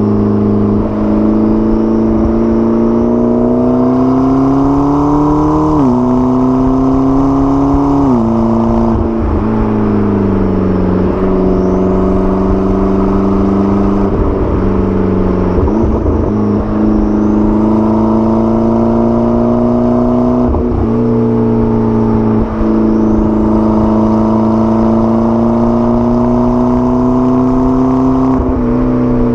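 McLaren 12C's twin-turbo V8 pulling through the gears. The engine note climbs slowly and drops sharply at several upshifts.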